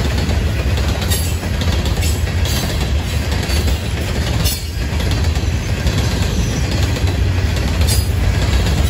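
Freight train's loaded steel hopper cars rolling past close by: a steady heavy rumble of wheels on rail, with a few sharp clacks at irregular moments.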